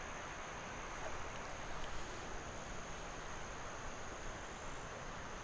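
Faint outdoor ambience: a thin, steady, high-pitched insect drone over a soft background hiss.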